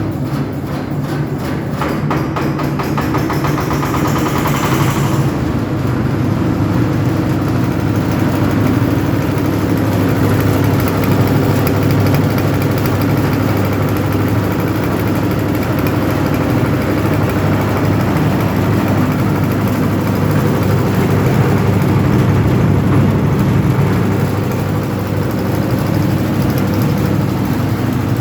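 Small diesel engine of a concrete mixer running steadily. It gives a rapid, regular knock for the first few seconds, with a brief rising hiss about four to five seconds in, then settles into an even run.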